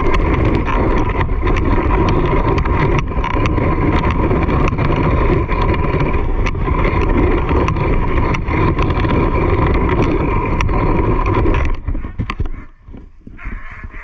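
Steady, loud rumble and rattle of fast movement, with wind buffeting the microphone and many small clicks. It drops away suddenly about twelve seconds in.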